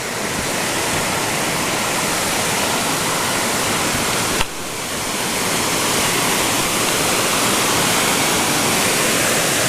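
Steady rushing of the Devils Track River's fast water, a dense even roar, with a sudden break about four and a half seconds in, after which it goes on a little louder.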